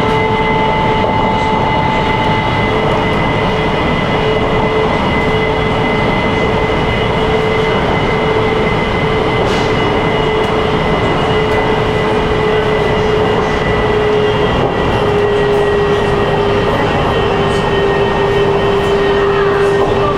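Wuxi Metro Line 1 subway train running between stations in an underground tunnel, heard inside the car: a steady, loud rumble of wheels and tunnel noise with a constant whine that drifts slightly lower in pitch.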